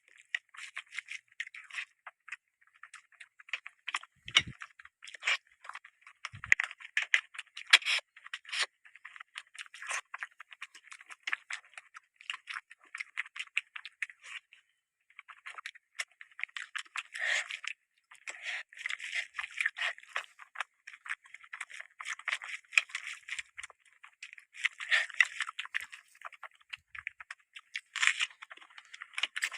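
Close-miked eating sounds: chewing with quick, irregular runs of mouth clicks and crunches, with a brief pause about halfway through.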